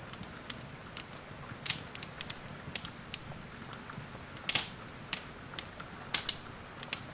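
Wood fire crackling, with sharp irregular pops, two louder ones about four and a half and six seconds in, over a steady hiss of rain.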